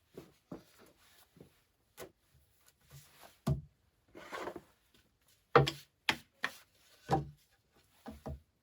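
Irregular knocks, clatters and rubbing as things are handled, a few sharp knocks in the middle louder than the rest, with a brief rustle between them.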